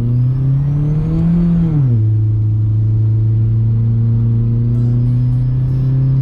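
Straight-piped Volkswagen engine running through its cut-off exhaust with no mufflers: a steady drone that rises in pitch about a second in, drops back shortly after, and then holds steady.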